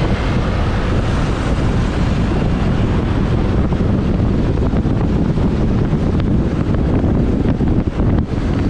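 Wind buffeting the microphone on a moving motorbike, a loud fluttering rush over the rumble of the engine and traffic.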